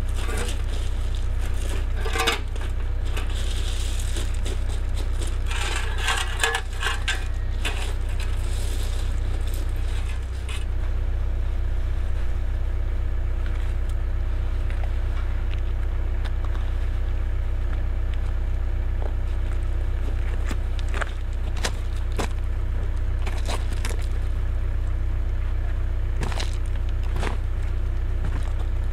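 Cat 307 excavator's diesel engine running steadily, with scattered knocks and clicks and a spell of scraping in the first third, as from the bucket working stone and soil.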